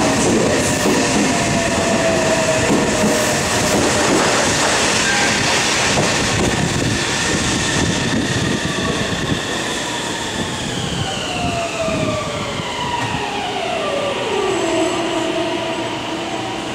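Meitetsu 2200 series electric train running into the platform, its wheels clattering over the rails. In the second half a whine falls steadily in pitch as the train brakes and settles near the end as it comes to a stop.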